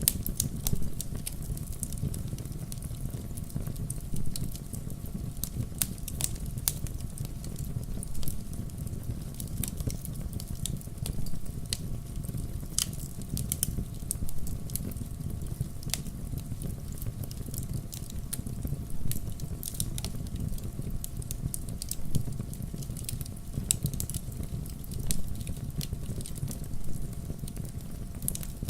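Wood fire burning in a fireplace: a steady low rumble of flame with constant crackling and a louder pop of the burning logs every second or two.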